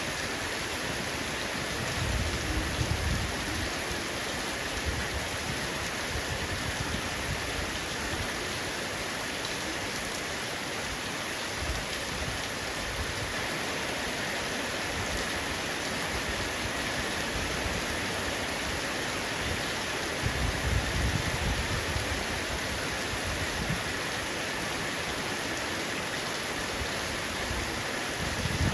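Heavy rain falling steadily on a roof, a dense even patter. Low rumbles swell briefly twice, a couple of seconds in and again about two-thirds of the way through.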